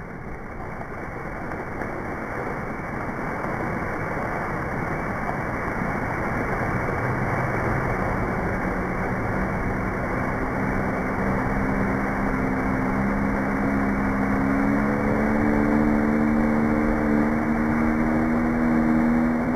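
A low, engine-like rumbling drone that grows steadily louder, with a humming tone coming in about halfway and strengthening toward the end.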